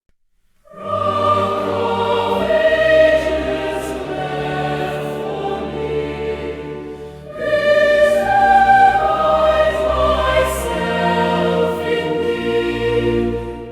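A choir singing a slow hymn with instrumental accompaniment, coming in after a brief silence, with a new phrase beginning about halfway through.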